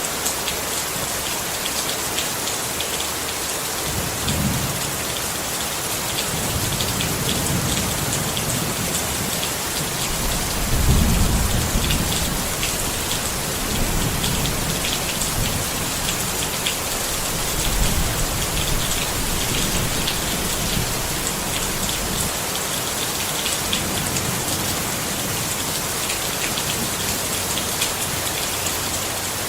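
Steady rain falling on a tent, with fine drop patter throughout. Low rumbles of thunder come and go, the loudest about eleven seconds in.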